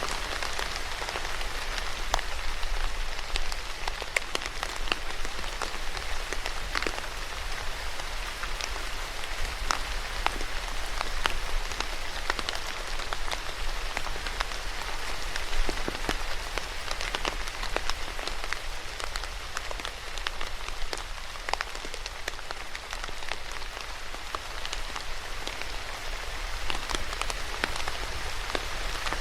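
Steady rain falling, with many individual drops pattering sharply on a surface amid an even hiss.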